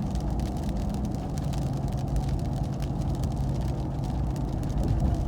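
Inside the cab of a Ram TRX pickup cruising: the supercharged 6.2-litre V8 drones steadily under road noise.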